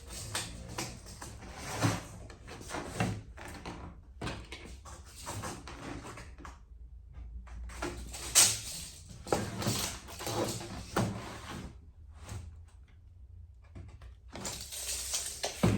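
Irregular rubbing, scraping and sharp knocks from hands-on work on a metal garage door, stopping briefly now and then.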